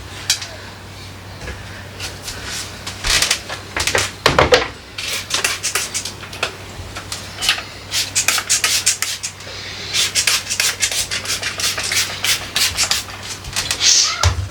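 Hand scrubbing a refrigerator surface: quick rubbing strokes in irregular runs, with short pauses about four and a half and nine and a half seconds in.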